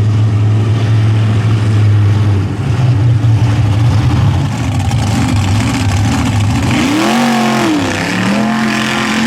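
Mud bog racing trucks' engines running hard and revving through the mud pit. About seven seconds in the engine pitch rises and falls sharply, then climbs again near the end.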